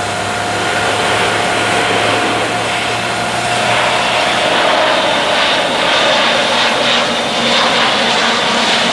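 Airbus A400M's four turboprop engines and propellers droning in a fly-by, with steady propeller tones over a broad rush of noise. It grows louder over the first few seconds as the aircraft comes in for a slow, low pass, then holds.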